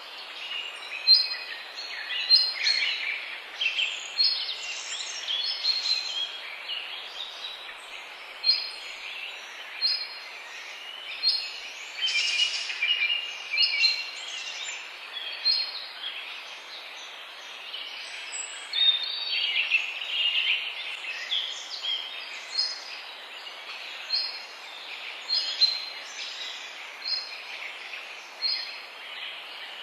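Several wild birds singing: one repeats a short, high chirp about once a second while others sing warbling phrases, over a steady background hiss.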